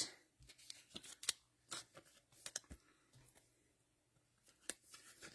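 Trading cards being handled: a scatter of faint clicks and scrapes as cards slide against one another.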